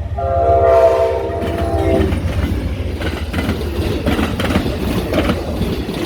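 A train horn sounds a multi-tone chord for about two seconds, over the heavy rumble of a passing train. Then the rumble and the clatter of wheels over rail joints carry on until the sound cuts off.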